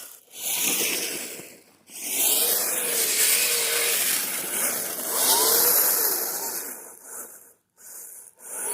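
Electric drive of a Kyosho Blizzard RC tracked snow vehicle whining under throttle over a steady hiss, its pitch rising and falling as the throttle is worked. It comes in about four bursts, with brief stops just under two seconds in and twice near the end.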